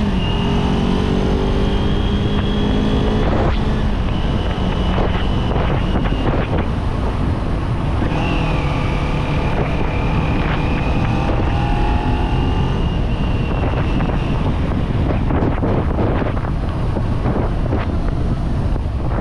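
Kawasaki Z400's parallel-twin engine pulling with its note rising, breaking off about three and a half seconds in, then running steadily at speed. Heavy wind rush on the microphone grows to cover the engine near the end.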